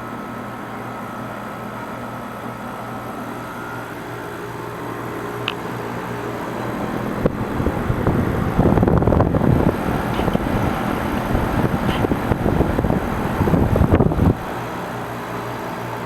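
Outdoor unit of a Carrier Comfort Series 5-ton heat pump running with a steady hum. About seven seconds in, a loud, uneven rumbling noise rises over it and stops abruptly about two seconds before the end.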